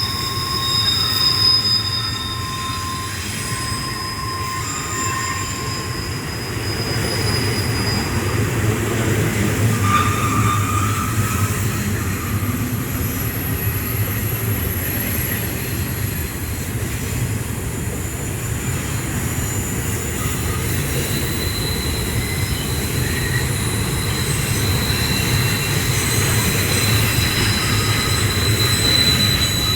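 Union Pacific double-stack container train rolling past: a steady rumble of cars and wheels on the rails, with thin, high-pitched wheel squeal tones that come and go.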